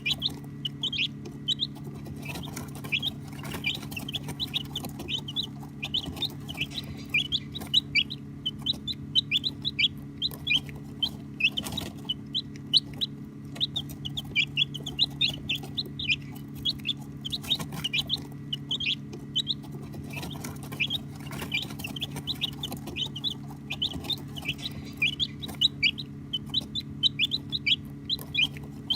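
A flock of baby chicks peeping without pause: many short, high, downward-sliding chirps overlapping several times a second, over a steady low hum.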